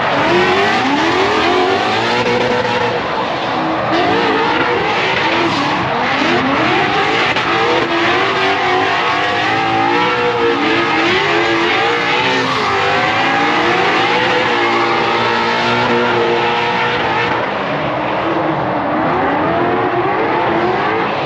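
Several car engines revving hard, their pitch rising and falling again and again and overlapping, fading away near the end.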